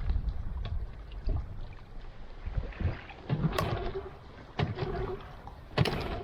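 Outboard motor being pull-started without catching: several sharp yanks and clunks over wind rumble, with no engine running. The motor cannot fire because its fuel hose has been left disconnected.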